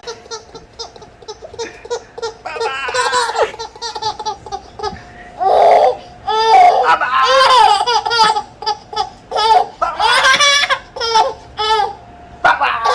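A baby laughing in repeated high-pitched fits of giggles and squeals, with short breaks between the bouts.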